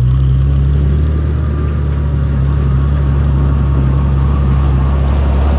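1962 Farmall 460 tractor engine running steadily with a low, even drone.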